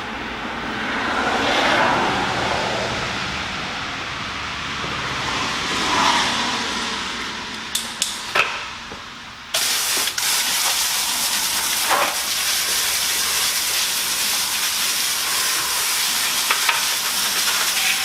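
Water spray from a pressure washer wand rinsing iron remover off a car wheel. About halfway through, the spray cuts in suddenly as a steady, loud hiss, after a swelling and fading rushing noise and a few sharp clicks.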